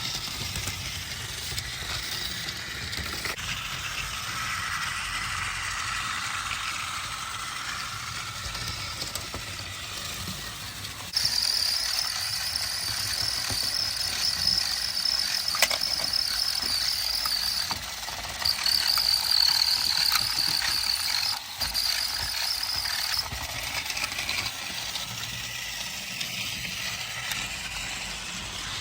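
Battery-powered Trackmaster toy train running on plastic track, its small motor and gears whirring steadily. About a third of the way in, a louder, high-pitched buzz joins it for roughly twelve seconds, breaking off briefly twice, then drops away.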